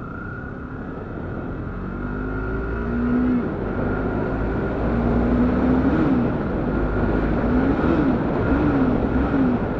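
Motorcycle engine running on the road with wind rushing over the microphone; the engine note rises and falls several times in the second half, and the whole grows louder.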